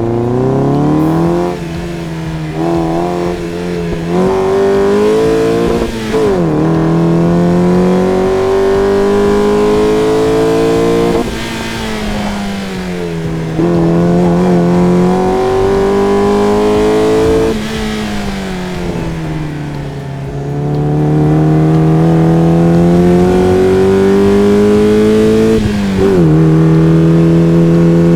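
Tuned Mazda Miata NB2's 1.6-litre inline-four, with a cold air intake cone and axleback exhaust, pulling hard at high revs on a race track. Its pitch climbs steadily for several seconds, then drops sharply at each gear change, about six times, with dips in between where it slows and picks up again.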